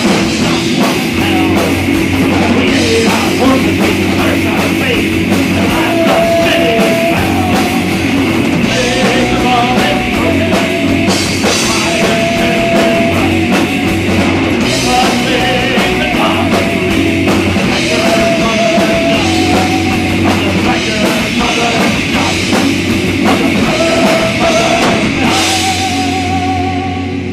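Live rock band playing loud: drums and distorted guitars, with a lead line of short held notes repeating over them until the song ends near the close.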